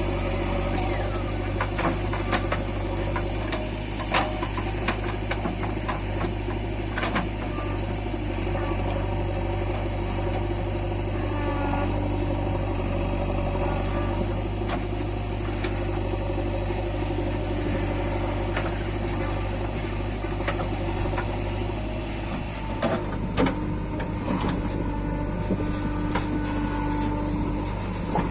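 Heavy diesel engines of a JCB 3DX backhoe loader and tractor running steadily while mud is loaded, with scattered sharp clanks and knocks, a cluster of them near the start and another late on.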